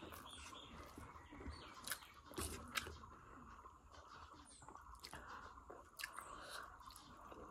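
Faint close-up chewing of jackfruit and pork curry with rice, with soft wet mouth clicks and smacks scattered through.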